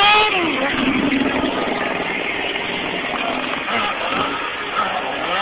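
Stunt motorcycle engine revving at the start, its pitch climbing and then dropping back, then running on under a steady wash of noise, heard through a cell phone's microphone.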